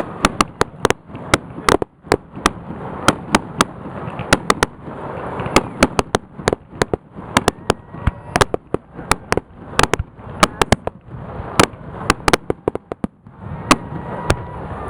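Fireworks display: a rapid barrage of sharp bangs and cracks, several a second, over a continuous rumble.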